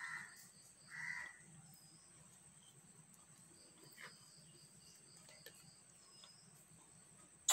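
A bird calls twice, short calls about a second apart, near the start, over faint room noise. A sharp knock comes right at the very end.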